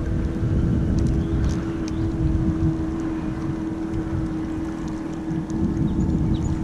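Motorboat engine running steadily as a boat passes on the river: a constant hum over a low rumble.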